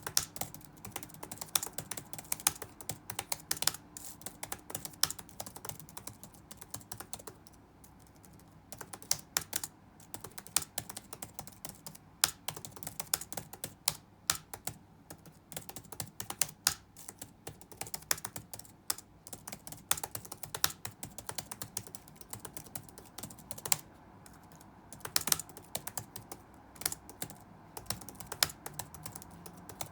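Touch-typing on a computer keyboard in fast irregular runs of key clicks, with a few short pauses between bursts, over faint room ambience.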